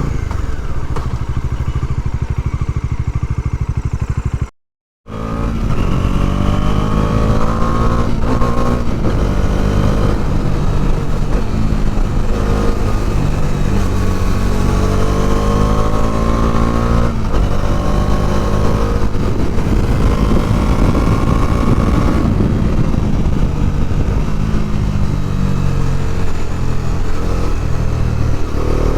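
Bajaj Dominar 400's single-cylinder engine running steadily at low revs, then, after a sudden cut about four and a half seconds in, on the move with its pitch rising and falling again and again as the bike accelerates and eases off.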